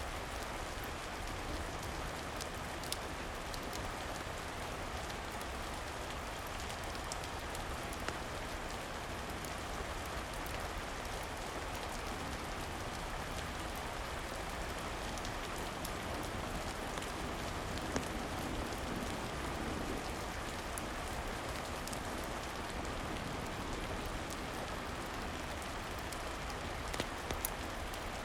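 Steady rain falling on a surface, with a few sharp crackles from a wood fire in a fireplace scattered through it.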